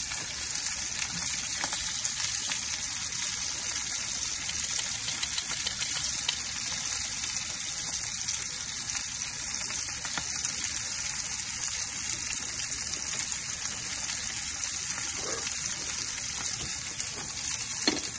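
Ahi tuna steaks searing in hot coconut oil in a cast iron skillet: a steady, even sizzle.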